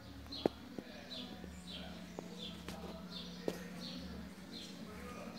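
A small bird chirping over and over, about one and a half short, falling chirps a second. A few sharp clicks come through, the loudest about half a second in, over a low steady hum.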